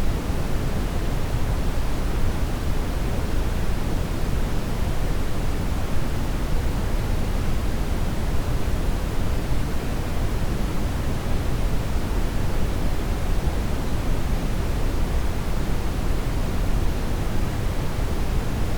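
Steady brown noise: an even, unchanging rush weighted heavily toward the low end, with no breaks or changes.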